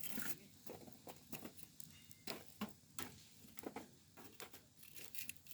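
A string of irregular light clicks and taps, about ten in all, at uneven spacing.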